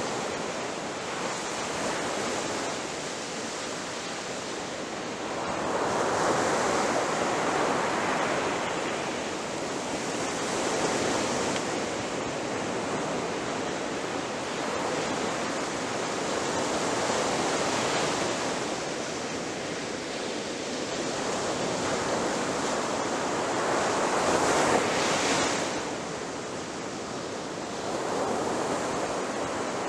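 Ocean waves breaking on a shore in a steady wash, with several louder swells as individual waves crash, about every six or seven seconds.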